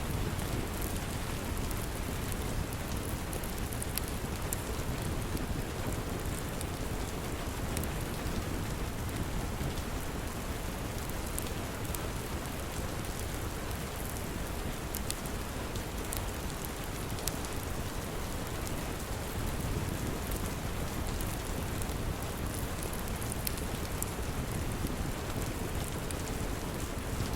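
Steady rain falling, mixed with scattered sharp crackles from a wood fire.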